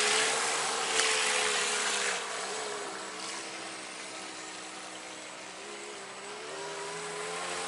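Electric RC V-hull boat's 4274-size 2000 kV brushless motor whining steadily at cruising throttle, its pitch wavering slightly, over a hiss of water spray. It grows quieter over the first few seconds and louder again near the end. The motor and speed controller are running hot and about to cut out.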